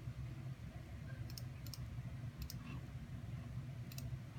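Computer mouse clicking a few times, some clicks in quick pairs, over a steady low hum.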